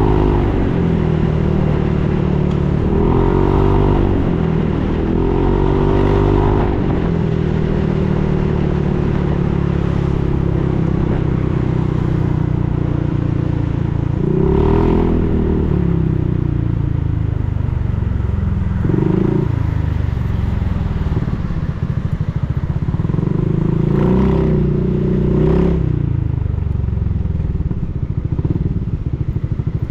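Honda Forza 350's single-cylinder engine through a Yoshimura full exhaust system, running with the revs rising and falling again and again: several short blips and one long, slowly falling stretch.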